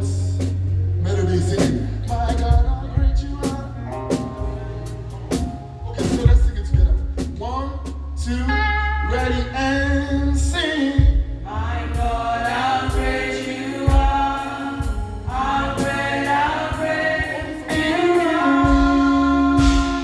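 Live gospel praise music: several voices singing over a band with drum kit and bass. The singing grows strong about eight seconds in.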